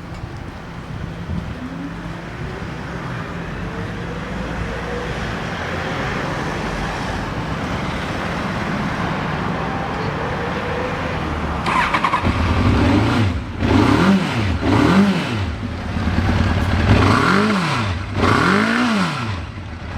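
Honda CB1000 Super Four's inline-four engine, breathing through a Techsurf aftermarket muffler, running at idle and then blipped four times in quick succession from about twelve seconds in, each rev rising and dropping back to idle.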